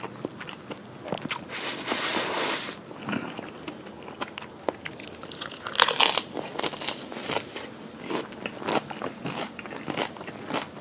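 Close-miked chewing and crunching of food by a person eating, many short crisp clicks of teeth on food. A brief rush of noise comes near the start, and a cluster of loud crunchy bites comes about six seconds in as a fresh piece is bitten.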